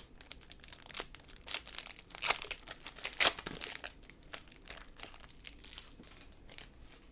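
Trading cards and their packaging being handled: irregular rustling and crinkling, with a few louder crackles a little past two and three seconds in.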